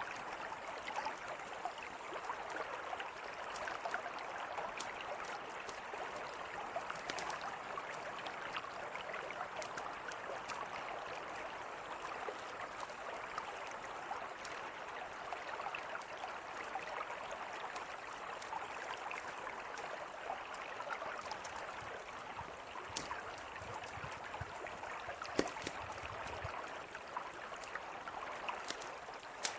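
Mountain river flowing steadily, with a campfire crackling over it in scattered small sharp pops and one louder pop late on.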